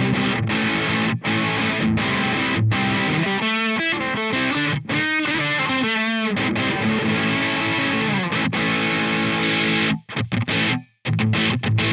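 Electric guitar through a Peace Hill FX TR tube preamp, playing with heavy distortion. Chords and riffs give way to a passage of wavering bent or vibrato notes about four to six seconds in, and clipped stop-start playing near the end.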